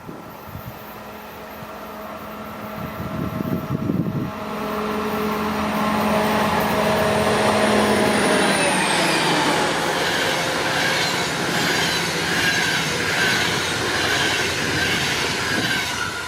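A pair of DB class 218 diesel-hydraulic locomotives running double-headed on an Intercity train. Their engines drone louder as they approach and drop in pitch as they pass about eight or nine seconds in. The coaches then roll by with a steady rush of wheel noise and rhythmic rail joint clatter.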